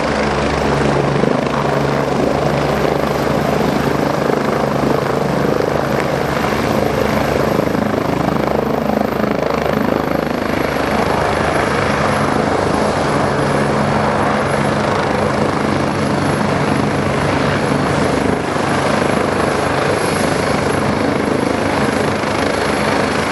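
Medical helicopter running steadily close by, a dense rotor and engine noise with a thin high turbine whine that drops slightly in pitch about ten seconds in.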